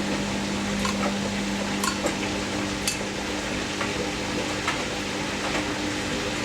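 Hoover DynamicNEXT inverter washing machine turning its drum slowly to balance the wet wool load before the final spin. There is wet laundry and water sloshing, a steady motor hum and scattered light knocks.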